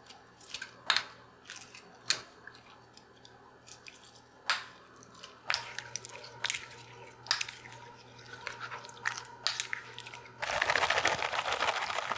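Sharp clicks and taps of things being handled, scattered through, then about a second and a half of dense rushing noise near the end that stops abruptly.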